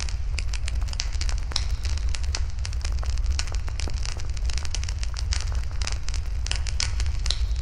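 Wood fire burning in a fire pit, crackling with many small, irregular pops, over a steady low rumble.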